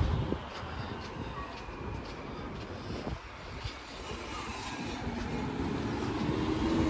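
Street traffic noise, with a vehicle's engine growing louder and rising in pitch near the end as it approaches.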